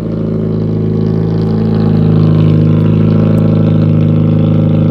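Car engine idling through a straight-piped exhaust with the muffler removed, running steadily and growing a little louder over the first two seconds.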